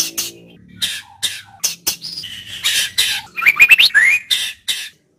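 White-rumped shama calling and singing: sharp chips and harsh rasping notes, with a quick run of rising whistled notes about three and a half seconds in.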